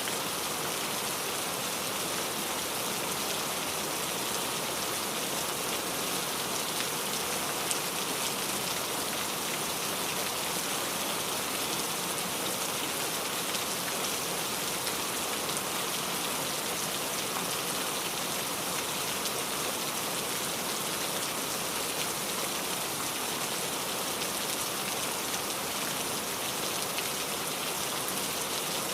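Steady rain falling, a dense even hiss with scattered drops pattering on a surface.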